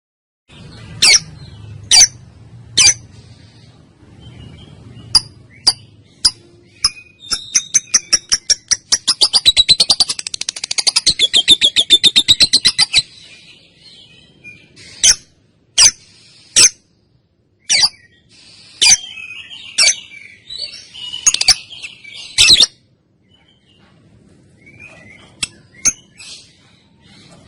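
Female lovebird calling: a few sharp, piercing shrieks, then a run of rapid ticking notes that speeds up into a long, fast chatter lasting several seconds, followed by more single sharp shrieks.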